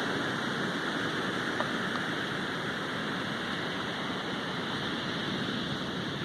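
Sea waves washing onto the shore, making a steady rushing noise, with a faint click about a second and a half in.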